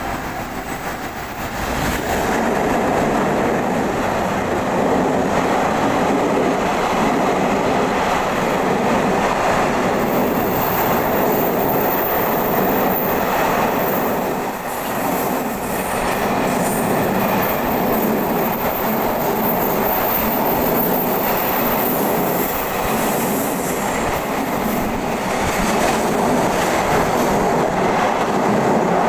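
A train running along the rails, its wheel and running noise rising about two seconds in and then holding steady, with a thin high whine through the middle.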